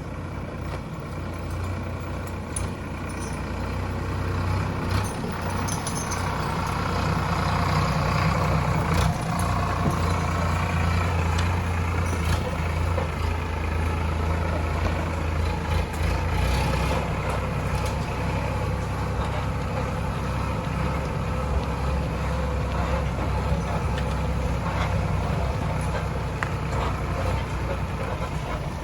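Heavy diesel engine running steadily, growing louder from about four to eight seconds in, with a few faint knocks over it.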